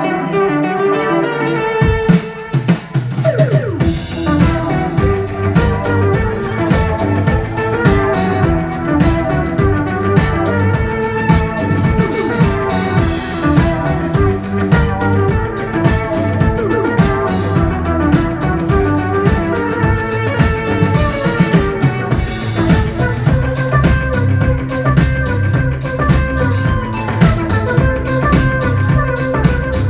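Live band playing an instrumental passage of Turkish psychedelic folk-rock. A plucked guitar line plays alone at first; about two seconds in, drum kit and bass come in, and the full band plays on with a steady beat.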